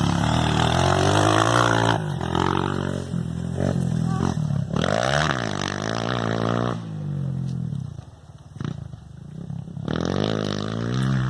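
Motocross motorcycle engine revving under changing throttle, its pitch climbing and falling repeatedly. It drops quieter for a couple of seconds about eight seconds in, then picks up again.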